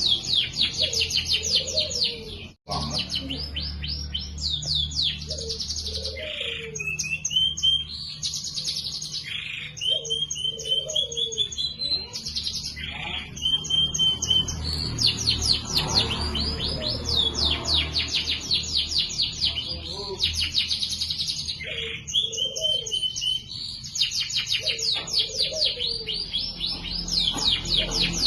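Domestic canary singing a long song of fast, rattling chirp trills alternating with held whistled notes, with a brief cut in the sound about two and a half seconds in.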